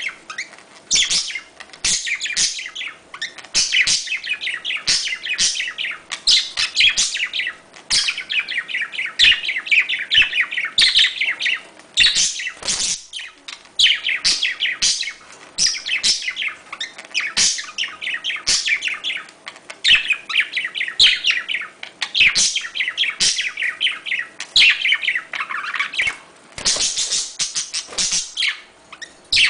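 Budgerigars chattering and warbling: rapid chirps and trills one after another, with a brief lull about halfway.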